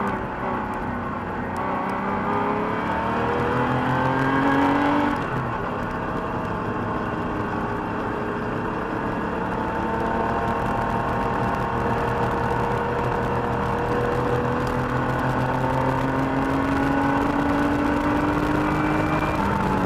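1985 Porsche 911 Carrera's air-cooled 3.2-litre flat-six, heard from inside the cabin under acceleration. Its pitch climbs for about four seconds and drops sharply about five seconds in. It then rises slowly and steadily through most of the rest and falls again near the end.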